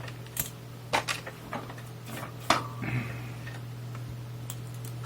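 A few irregular sharp clicks and taps of a soldering iron and small tools being handled at the workbench, over a steady low electrical hum.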